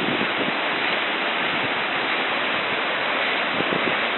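Fast, strong floodwater rushing and churning in a steady roar of noise.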